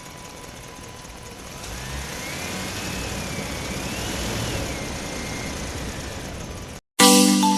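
Engine running steadily, then revving up and down twice through the middle before cutting off suddenly; a chiming music jingle begins near the end.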